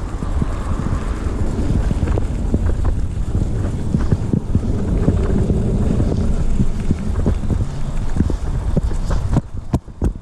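Wind rumbling on the microphone, with irregular knocks through it. The rumble dips briefly near the end.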